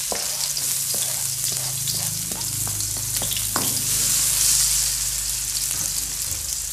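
Chopped garlic, shallots and chilies sizzling in hot oil in a wok. A spatula and cutting board knock and scrape against the pan a few times in the first few seconds.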